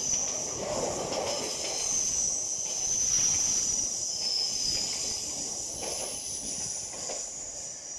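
LNER Azuma high-speed train rolling past along the platform, with a steady high electric whine over wheel and rolling noise.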